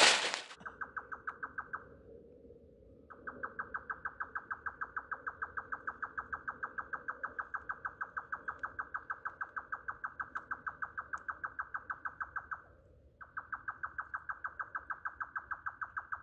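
A rapid, evenly pulsed animal call, about five pulses a second, in long runs: a short burst at the start, a gap, then a long run from about three seconds in that stops near thirteen seconds and starts again shortly after.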